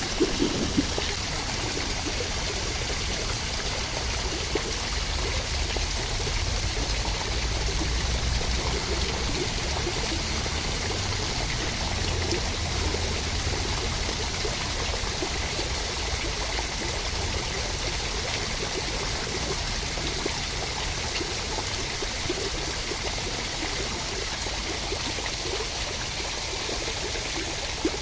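Running water: a steady, even rushing hiss with a low rumble underneath and a few faint ticks.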